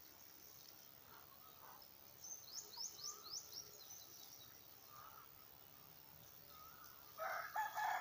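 A small bird gives a quick high-pitched trill of about six falling notes, with a few faint bird calls around it; near the end a rooster starts crowing loudly.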